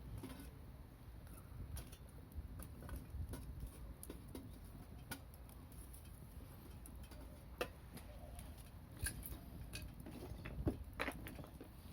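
Wood campfire crackling: sparse, irregular sharp pops and ticks.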